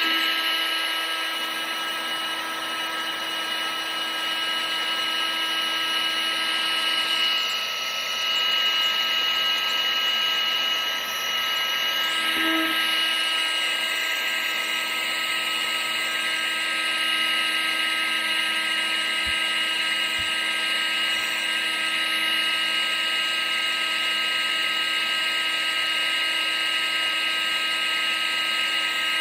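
Vacuum cleaner running steadily: rushing air under a constant high-pitched motor whine that holds its pitch throughout.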